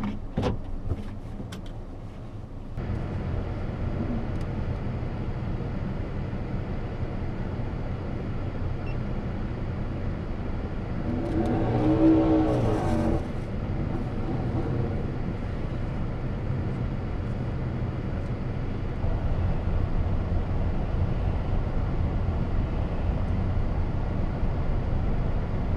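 Car engine running at low speed, heard from inside the cabin. A few sharp knocks come in the first couple of seconds, and the engine hum grows louder about three seconds in. About twelve seconds in, a brief louder pitched sound rises and falls.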